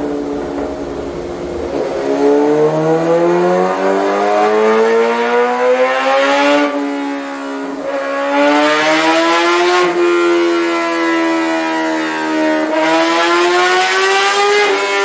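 2026 Kawasaki Ninja ZX-6R's inline-four engine with a full M4 exhaust, running hard and climbing in pitch under load. The pitch drops sharply about 7, 10 and 13 seconds in, like upshifts, and climbs again after each drop.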